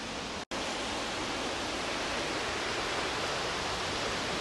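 Small waterfall: a steady rush of falling water. The sound cuts out completely for a split second about half a second in, then resumes.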